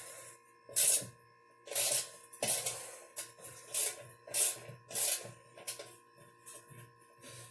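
Hand ratchet with a 10 mm socket backing a fender nut off a mini bike: a burst of metallic clicking on each back-stroke, repeating every half second or so, with a short pause about a second in.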